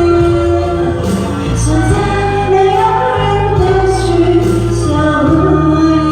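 A woman singing long, held notes of a Chinese pop ballad over amplified backing music with a bass line that steps from note to note.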